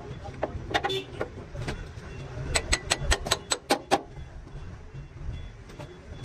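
Hammering: a few scattered sharp knocks, then a quick run of about nine strikes in under two seconds, over a low rumble.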